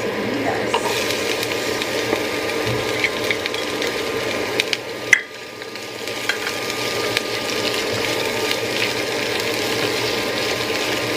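Diced onion and minced garlic sautéing in hot oil in a nonstick wok, with a steady crackling sizzle as they are stirred with a silicone spatula. There is a sharp click about five seconds in.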